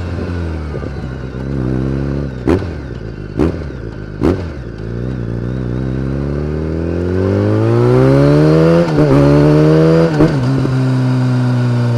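BMW K1300R inline-four with an Akrapovic exhaust, running at a steady low pitch, with three sharp cracks about a second apart. The engine then revs up over a few seconds and holds high, with two short dips, before settling at a lower, steady pitch.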